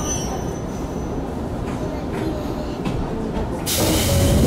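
Izuhakone Railway 5000 series electric train standing still with a low steady hum, then, nearly four seconds in, a sudden loud hiss of compressed air.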